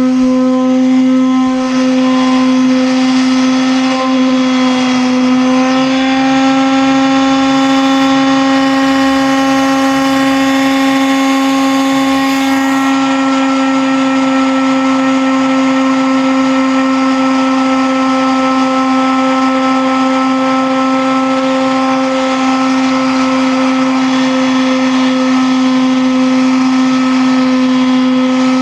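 A motor running steadily: a constant hum with a ladder of overtones, its pitch stepping slightly up about five seconds in.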